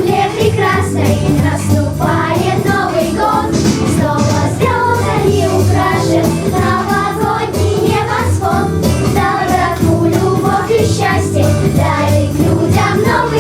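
Children's choir singing a cheerful winter song in unison over a backing track with a steady beat.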